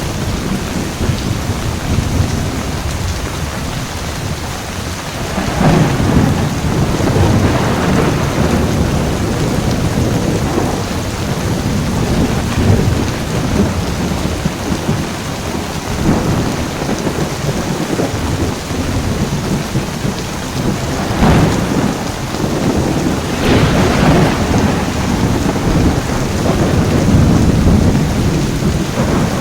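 Heavy rain pouring steadily, with thunder rumbling repeatedly. The loudest rolls come about five seconds in, around twenty seconds, and again near the end.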